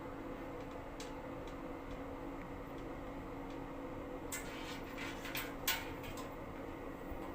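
Light clicks and handling noises of parts and hand tools while a fuel booster pump is being mounted on a test bench. There is a quick cluster of sharper metallic clicks and scrapes about four to five seconds in, over a steady hum.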